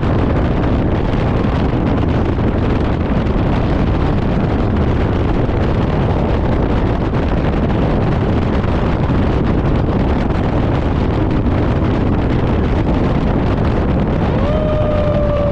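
Fire engine on the move, a loud steady rumble of engine, road and wind noise. Near the end a siren tone comes in, jumping up and then slowly sliding down in pitch.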